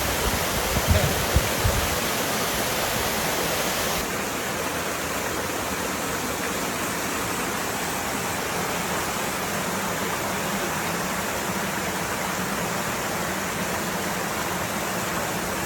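Waterfall rushing, a steady wash of falling water. A few low thumps sound in the first two seconds, and the sound turns slightly quieter and duller about four seconds in.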